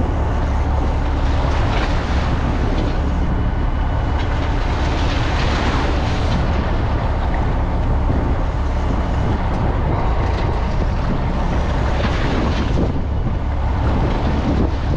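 Fishing boat's engine running steadily under way, a constant low rumble, with wind and rushing water that swell and fade every few seconds.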